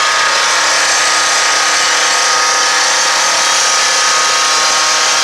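A power saw running steadily at high speed, cutting open the body of a burning garbage truck to get at the fire inside.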